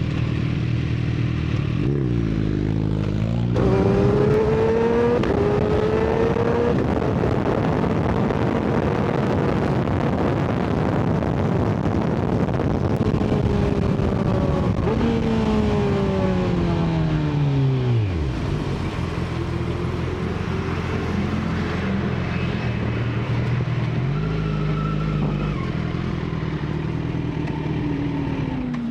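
Inline-four superbike engine under way at highway speed, with wind rushing over the bike. Its pitch climbs a few seconds in as it accelerates, holds, falls away steadily in the middle as it slows, and climbs again near the end.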